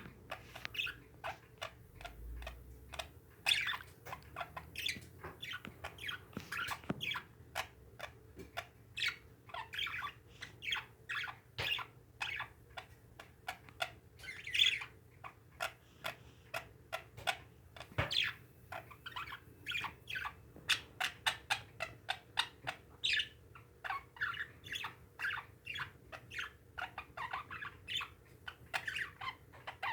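Pet parakeets (budgerigars) chattering, a continuous run of short chirps and squawks.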